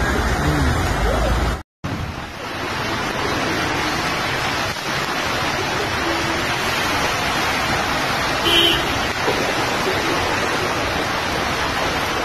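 Floodwater rushing down a street, then after a sudden cut, heavy rain pouring steadily onto a wet street. A brief higher-pitched sound comes about two-thirds of the way through.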